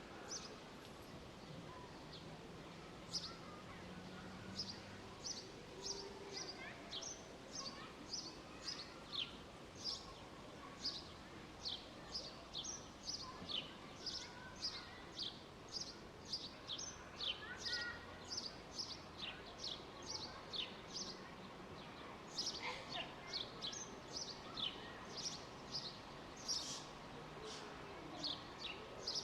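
A bird repeating short, high chirps about twice a second, each one dropping in pitch, over a steady background hum of park ambience.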